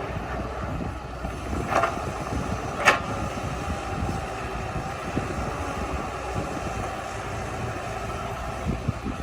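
Diesel engine of a small crawler bulldozer running steadily while working, with two short, sharp metallic sounds about a second apart near the start, the second louder.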